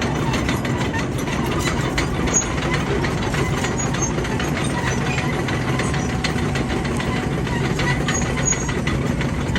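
Bulldozer's diesel engine running steadily, with a scatter of sharp clicks and clanks over the drone.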